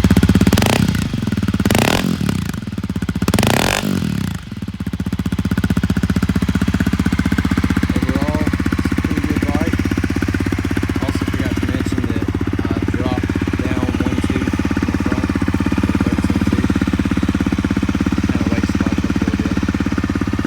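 2019 Honda CRF250L's single-cylinder four-stroke engine through a Yoshimura RS4 slip-on exhaust, blipped three times in the first few seconds, then settling to a steady idle.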